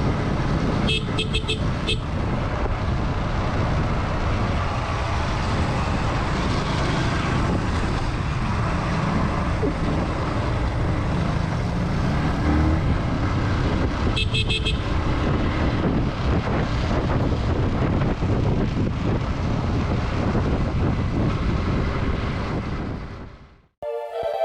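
Motorcycle riding on the road, with a steady rumble of engine and wind on the microphone. A horn gives a quick series of short beeps about a second in and again about 14 seconds in. The sound fades out near the end.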